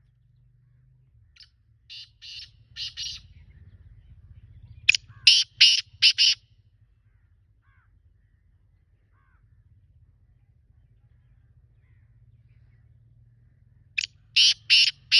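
Black francolin calling in three phrases of short, clipped notes. A softer phrase of four or five notes comes early, a louder phrase of about five notes comes some five seconds in, and another loud phrase starts near the end.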